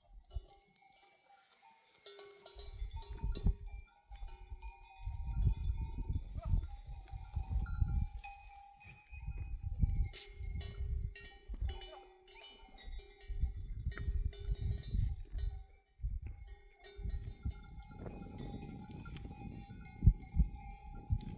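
Bells on a flock of sheep clinking and ringing irregularly as the animals move, with repeated low rumbling gusts underneath.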